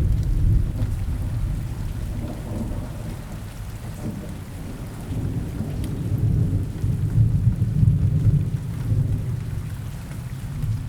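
Steady rain with low rolling thunder. The rumble is loud at the start, eases, then swells again for a few seconds past the middle.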